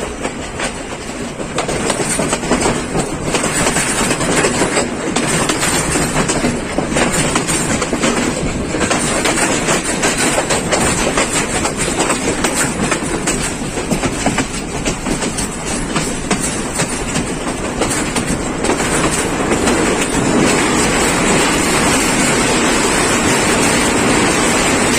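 Passenger train running on the rails, its wheels clattering rapidly over the rail joints. About twenty seconds in, the clatter gives way to a steadier rushing noise.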